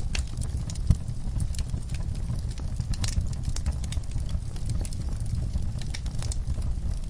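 Wood fire crackling in a fireplace: scattered sharp pops and snaps over a steady low rumble of flame, with one louder pop about a second in.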